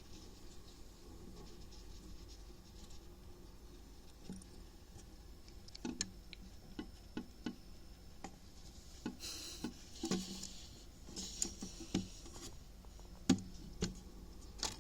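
Scattered light taps and clicks, irregular and a few to the second at most, starting about four seconds in, with two brief rustles in the middle: small handling sounds.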